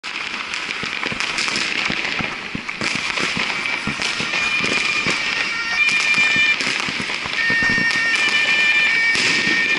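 Dense crackling and popping of firecrackers, with several shrill, steady-pitched whistles of whistling fireworks overlapping from about halfway in.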